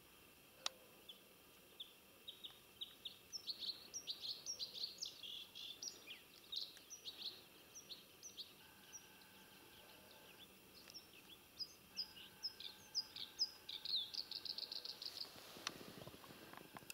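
Songbird singing in quick, high chirping phrases, ending near the end in a fast trill of repeated notes. A single sharp click comes just under a second in.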